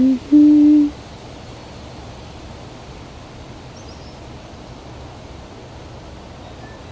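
A person hums two short, low, steady notes within the first second. After that comes a steady hiss of wind with a low rumble.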